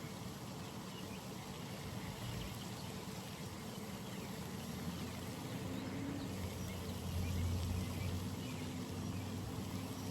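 Outdoor pond ambience: a steady low engine hum, growing louder about seven seconds in, over a soft watery hiss, with faint high chirps.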